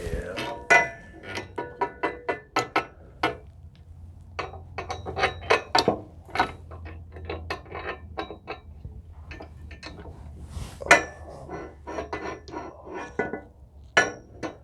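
Metal parts and hardware of a table saw stand clinking and rattling as they are handled during assembly: a run of irregular sharp clicks, some with a short metallic ring.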